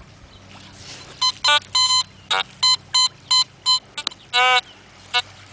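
Metal detector beeping over a buried target: a run of short, high beeps at one pitch, about three a second, then a longer, lower, wavering tone near the end.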